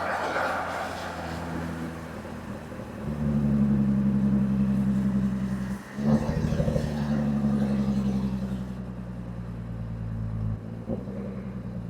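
Jaguar F-Type V6 S's supercharged 3.0-litre V6 running at low, steady revs under light throttle. It gets louder about three seconds in, drops out briefly just before six seconds as for a gear change, then slowly eases off.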